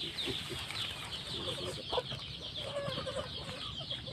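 Birds chirping steadily: short, high, downward-sliding chirps about four a second, with scattered faint lower calls.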